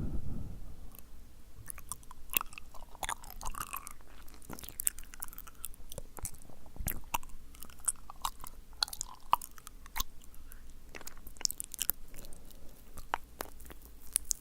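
Wet, sticky mouth sounds close to the microphone: many irregular tongue clicks and lip smacks.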